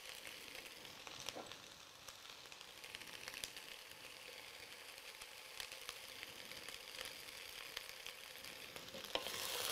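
Faint sizzling of onion, potato and red lentils frying in oil in a pot, with scattered small crackles, growing louder near the end.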